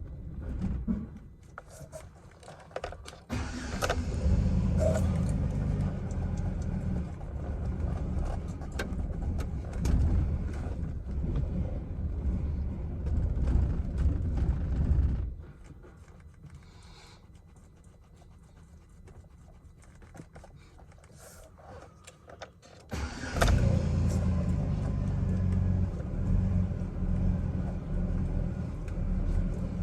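Chevrolet Silverado engine starting a few seconds in and running with a very rough idle on a nearly dead battery. It stops abruptly about halfway through, then starts again a few seconds before the end.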